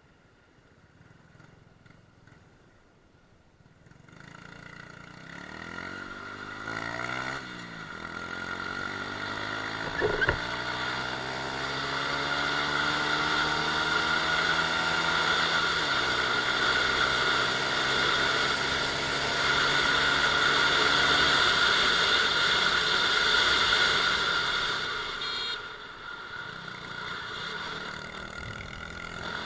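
Honda Super Cub 110i's small single-cylinder four-stroke engine pulling away and accelerating, its pitch rising and stepping down at each gear change, then running at speed. The engine eases off near the end.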